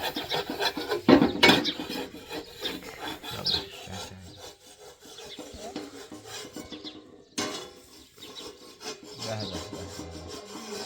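Irregular scraping and rubbing strokes, with two sharp knocks about a second and a half in.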